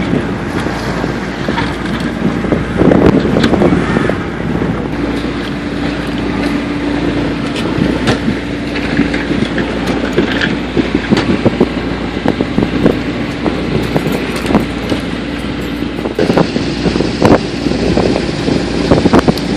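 Sailboat underway: wind buffeting the microphone over the rush of water and boat noise, with a faint steady low hum underneath and occasional small knocks.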